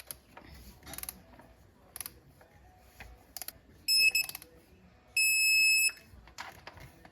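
Metal tools and parts clicking and clattering, with two high electronic beeps: a short stuttering one about four seconds in and a steadier one lasting most of a second a little after five seconds.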